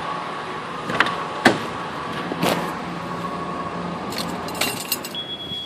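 An old Nissan car idling with its lights, wipers, AC and defroster all switched on, a steady running hum under a few sharp clicks and rattles. A short high beep sounds near the end, and the running sound drops away.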